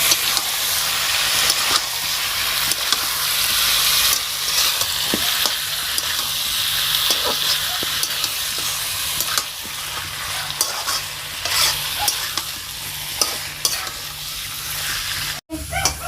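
Biryani ingredients frying in hot oil in a pan, sizzling steadily, with repeated scrapes and clicks of a spoon stirring them. The sound cuts out abruptly for an instant near the end.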